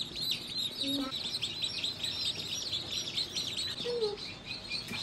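A crowd of newly hatched chicks peeping continuously, a dense chorus of many overlapping high peeps.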